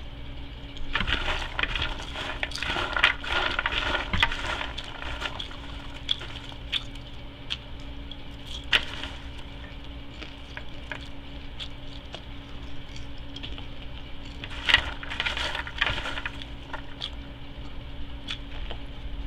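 Close-miked chewing and mouth sounds of a person eating, made up of wet, crackly clicks. There are two busier stretches, one about a second in and another about three quarters of the way through.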